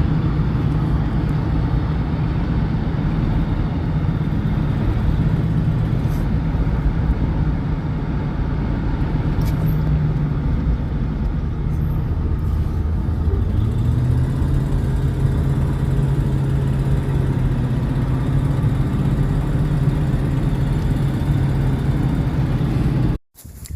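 Steady drone of a low-flying crop-duster airplane's propeller engine, with a pitched hum that settles lower about halfway through, then cuts off abruptly near the end.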